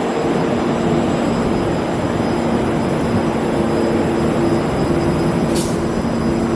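Buffalo Metro Rail light-rail train running, a steady rumble with a constant motor hum, and a short hiss about five and a half seconds in.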